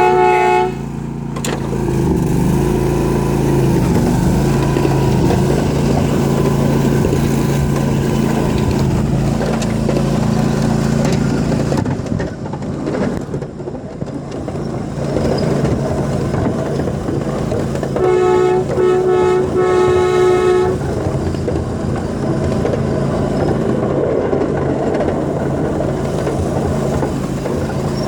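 Diesel locomotive running with a steady low drone, giving way to the rumble of the passing train about halfway through. Its multi-chime air horn sounds briefly at the start and again about two-thirds of the way in, as a few short blasts.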